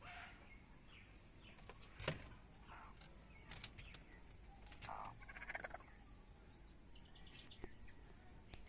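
Domestic hen in the nest giving a few faint short clucks, the clearest about five seconds in and followed by a quick run of pulsed notes. A sharp click sounds about two seconds in.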